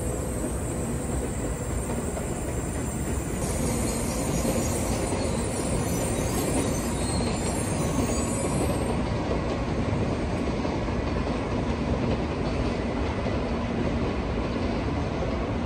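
Freight train of container wagons rolling along the tracks: a steady rumble of wheels on rail that gets a little louder a few seconds in, with a faint high wheel squeal around the middle.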